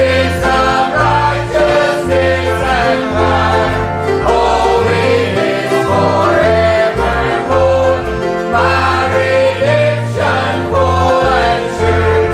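Group of voices singing a gospel song with instrumental accompaniment and a bass line that changes note about every second.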